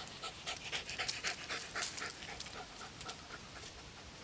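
A dog panting rapidly, about four breaths a second.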